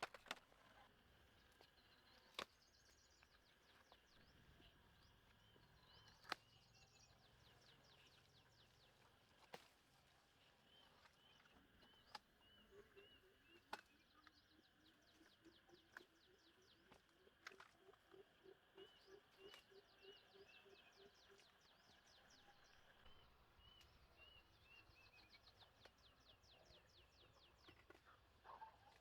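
Faint outdoor birdsong: several birds repeat short chirps and quick high trills. A low call of rapidly repeated notes runs for several seconds midway. Sharp knocks or taps come every few seconds and are the loudest sounds.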